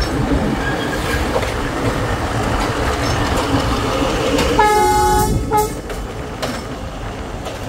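Coal train rolling past, its wheels rumbling steadily and clacking over the rail joints. Just past halfway a horn sounds one blast of about a second, then a short toot.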